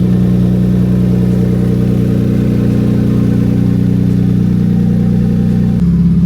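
Genesis G70's twin-turbo V6 engine running steadily at a low, even speed; its note shifts and drops a little near the end.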